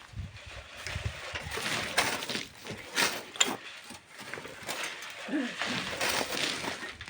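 Irregular knocks and scraping strokes of hand work on sand and stone, several sharp ones close together in the middle.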